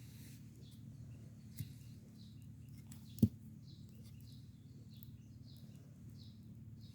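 A small bird chirping repeatedly, short high notes a few tenths of a second apart, over a low steady rumble, with a single sharp crack about three seconds in.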